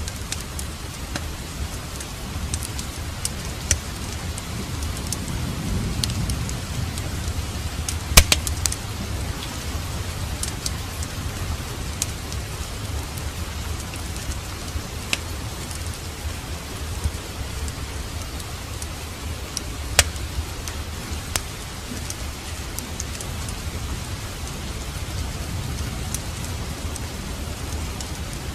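Steady rain with a low rumble underneath and a fireplace crackling: scattered sharp pops, the loudest about eight seconds in and again about twenty seconds in.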